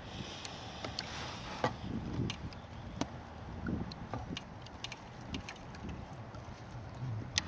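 Scattered light clicks and wooden knocks of fishing tackle being handled aboard a small boat, with a short hiss in the first second or so.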